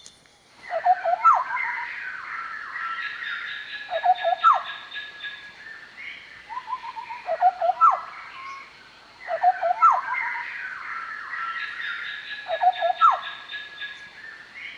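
Large scimitar babbler song: phrases repeating about every three seconds, each a run of low bubbling notes with a sharp whistled upswing, set within a longer, higher chattering.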